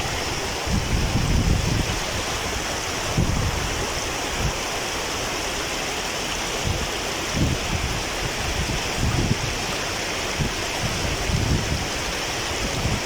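Mountain waterfall rushing steadily, with irregular gusts of wind rumbling on the microphone.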